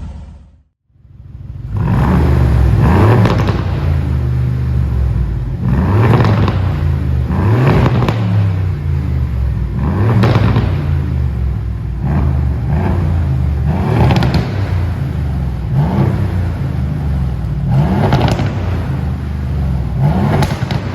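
Aston Martin Vanquish V12 revved repeatedly through a customised valved sport exhaust, the pitch rising and falling about once every two seconds, nine times or so, after a brief drop-out at the start.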